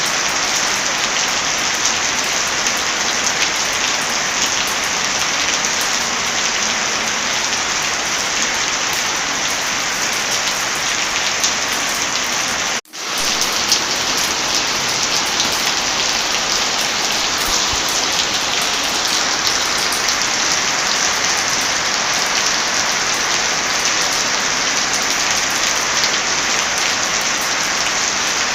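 Heavy rain, a steady dense hiss, with fine crackles of a wood fire mixed in. About halfway through, the sound cuts out for an instant and swells back in, like the seam of a loop.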